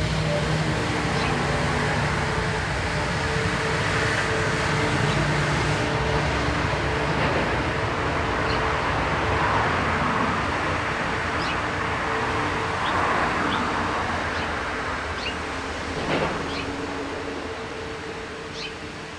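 A passing motor vehicle's engine and rumble, steady for most of the stretch and fading away near the end. Brief high bird chirps sound now and then over it.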